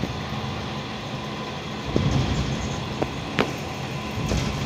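Passenger train running slowly along the rails, heard from inside the rear coach: a steady low rumble with a few sharp clacks, one about two seconds in and two more around three seconds in.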